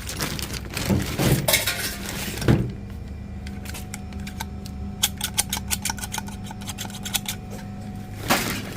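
Hands rummaging through a bag of mixed household scrap: rustling and handling at first, then from about three seconds in many small metal items clinking and clattering against each other.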